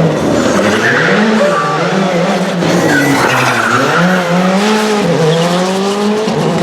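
Rally car engine revving up and down repeatedly while the tyres squeal and skid on the tarmac.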